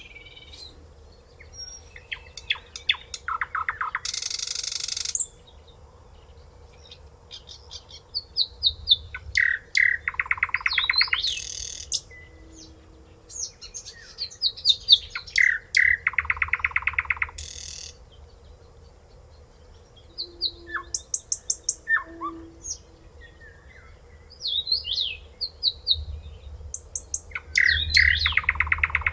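Nightingale singing in separate phrases a few seconds apart: fast runs of repeated notes, rising and falling whistles and harsh buzzy notes, with short pauses between phrases.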